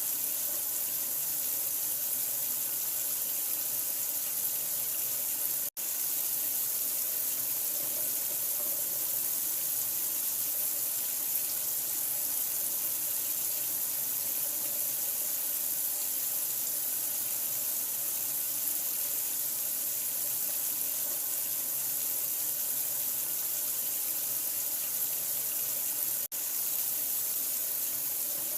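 Steady running water, an even rushing hiss like a tap running into a sink. It cuts out for an instant about six seconds in and again near the end.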